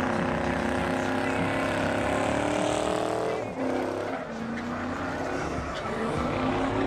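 Truck engine revving hard and held at high revs, its pitch rising and falling, with a brief drop about three and a half seconds in.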